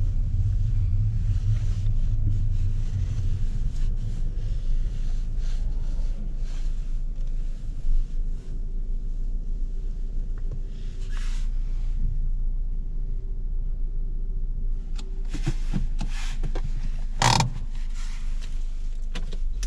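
Cabin noise of a 2011 Volkswagen Golf VI 1.4 TSI with DSG gearbox on the move: a low engine and road rumble, heaviest in the first few seconds, with scattered small knocks and rattles and a sharper thump near the end.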